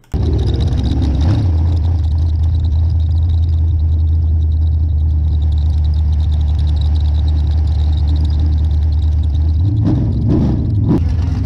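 Wingless sprint car's V8 engine running steadily at low revs, with two short throttle blips near the end.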